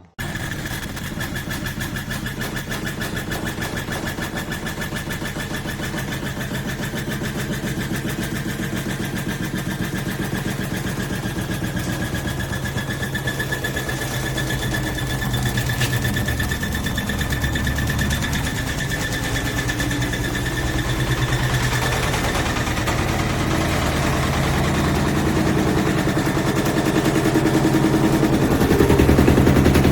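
Washing machine running a spin, its motor whining steadily over a fast rhythmic drum rumble, growing gradually louder.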